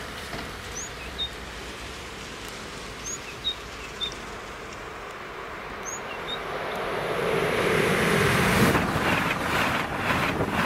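Allegro electric high-speed train approaching and passing: a faint steady rushing that builds from about six seconds in to a loud rush as the train goes close by, with rapid clattering of the wheels near the end.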